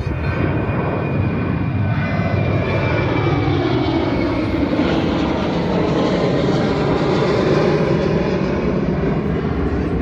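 Airplane taking off and passing close overhead: loud, steady engine noise, with a whine that falls in pitch in the first few seconds as it goes by.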